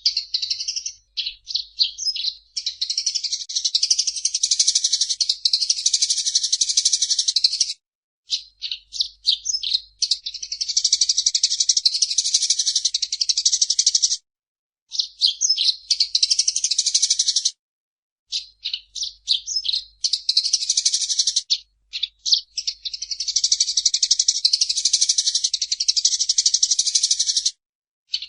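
Eurasian tree sparrow singing: runs of short separate chirps alternating with long, rapid chattering trills that each last several seconds, broken by a few short silent pauses.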